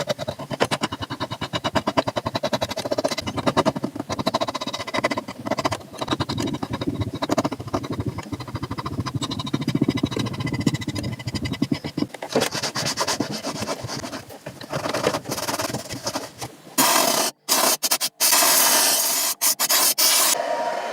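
Fast, steady scrubbing strokes of a brush working over a leather shoe during cleaning. About 17 seconds in, a loud, steady rushing noise takes over, broken by sudden cuts.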